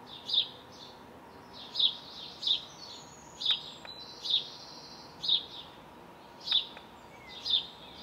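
A small songbird repeating short, high chirps every second or so, with a longer, higher whistled note in the middle.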